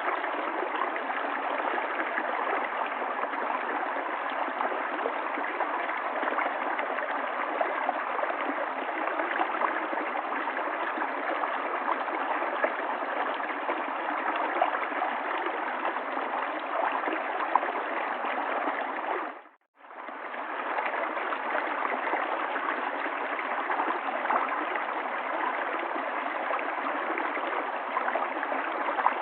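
River water flowing and gurgling steadily. About two-thirds of the way through, it briefly fades to silence and fades back in within about a second.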